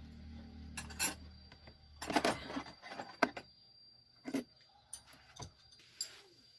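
Metal hand tools clinking and tapping in a series of sharp, irregular clicks, the busiest cluster about two to three seconds in. A low steady hum underneath fades out about two and a half seconds in.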